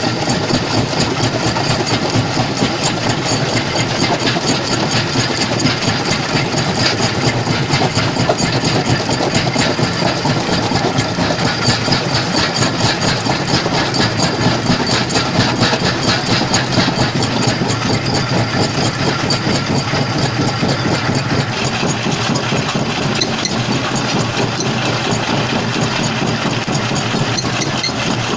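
Stone jaw crusher plant running, a steady loud mechanical drone with a dense continuous rattle.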